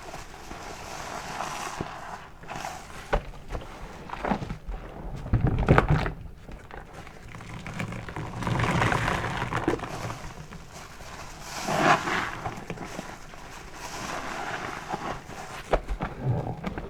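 A soapy car wash sponge being squeezed and released over and over, wet squelching and crackling foam in uneven swells, with the heaviest squishes about five to six seconds in and again near twelve seconds.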